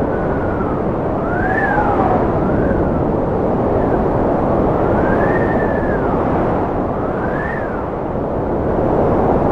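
Strong wind blowing steadily, with a whistling howl that rises and falls in pitch every second or two.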